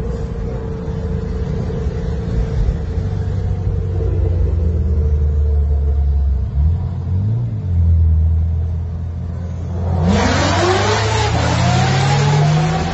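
Car engine running with a steady low drone, then about ten seconds in a sudden switch to louder road noise with engine pitch rising as a vehicle accelerates.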